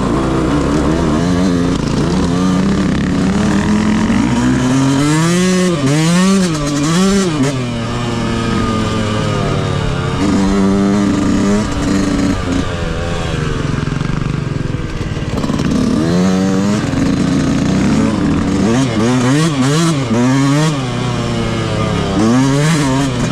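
Yamaha YZ125 two-stroke motocross bike engine on its stock exhaust, ridden hard: the pitch swings up and down in quick surges of throttle about five seconds in and again near the end, with steadier running in between.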